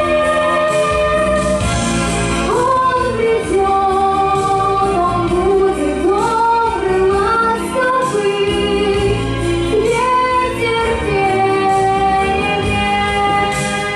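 A girl singing a pop song over a recorded backing track. Held accompaniment chords run throughout, and the voice comes in about two and a half seconds in with a gliding, sustained melody.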